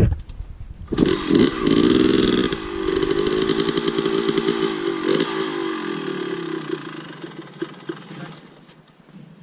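Two-stroke dirt bike engine revving hard about a second in, then running on with its pitch slowly falling and fading away near the end.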